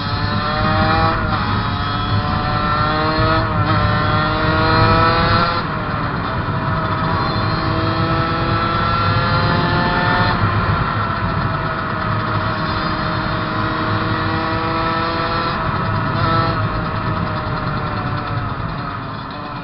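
Fantic 50cc motorcycle engine at full throttle, revving up through the gears: the pitch climbs, drops briefly at each shift (three quick shifts in the first six seconds), then rises slowly and holds at high revs, easing off near the end.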